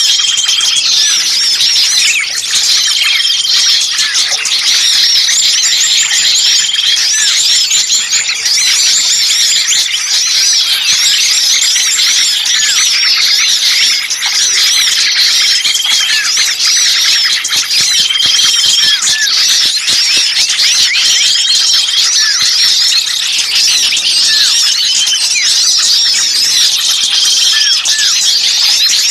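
A loud, dense chorus of many small songbirds chattering and calling over one another, with a short level whistle that recurs every two to three seconds. This is a bird-lure recording of noisy, agitated small birds, used to call wild birds in.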